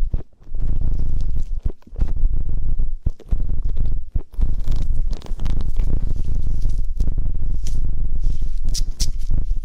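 ASMR ear cleaning: loud, close rubbing and scratching right against the microphone. It comes in runs broken by a few brief pauses, with crackly clicks near the end.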